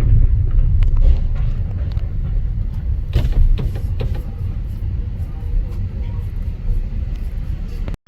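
Low, steady vehicle rumble with a few scattered knocks and clicks.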